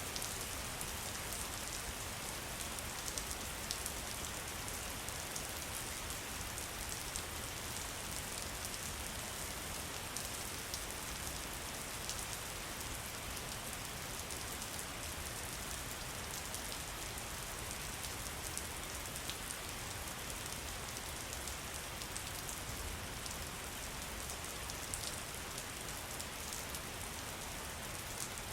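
Steady rain falling, with many small drops pattering on foliage and surfaces. It is an even hiss throughout, dotted with separate drop ticks.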